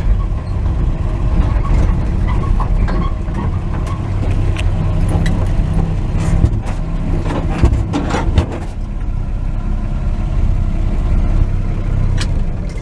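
1949 Chevrolet truck's straight-six engine running steadily, with a few clicks and knocks about eight seconds in.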